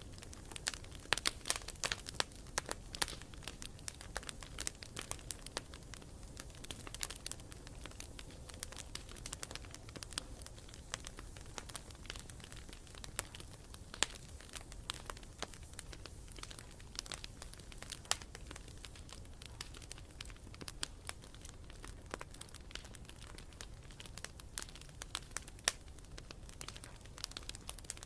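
Wood campfire crackling, with frequent irregular sharp pops over a steady low background noise.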